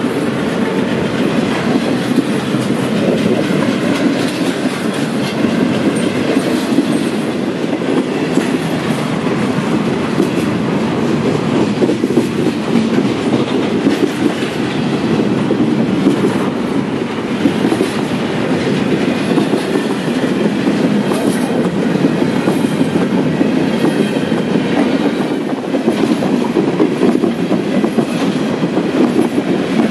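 Freight train of double-stack container cars and boxcars rolling past close by, its steel wheels running steadily on the rails.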